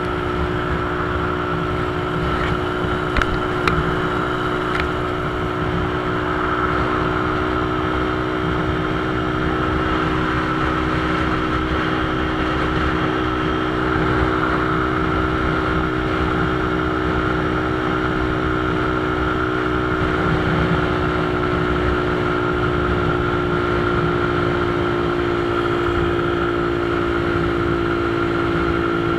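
Motorcycle engine running at a steady pace with road and wind noise, its pitch holding nearly constant; a few sharp clicks about three to four seconds in.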